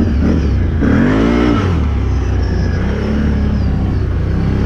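Can-Am 1000 off-road vehicle's engine running under load, revving up and back down about a second in, then settling into a steady drone.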